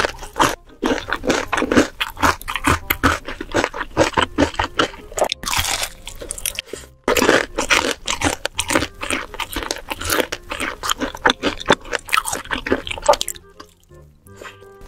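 Close-miked crunching and chewing of crispy fried chicken: a dense, fast run of crisp bites and chews that thins out and goes quiet near the end.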